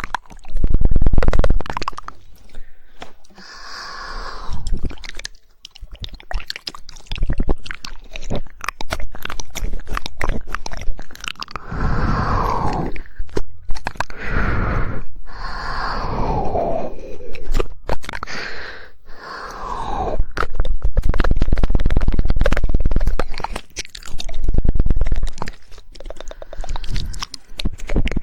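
Wet mouth sounds and rapid tongue clicking made right at the microphone, a dense run of quick clicks, with the mouth's resonance shifting now and then.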